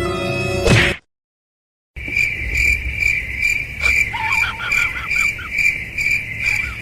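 Music ends about a second in and is followed by a second of silence. Then crickets chirp in a steady pulsing rhythm, about two to three chirps a second, with a few faint warbling calls under them near the middle.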